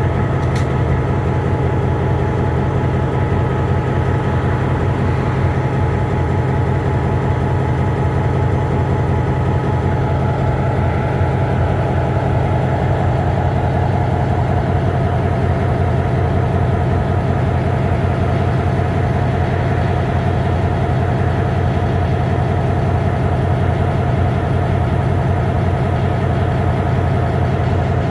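EMD MP15 switcher locomotive's two-stroke V12 diesel idling steadily, freshly started cold.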